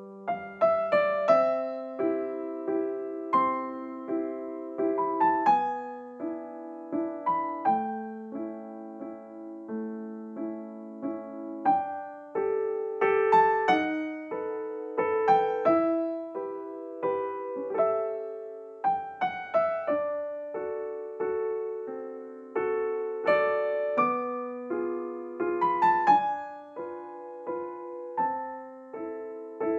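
Background music: gentle solo piano playing a melody over chords.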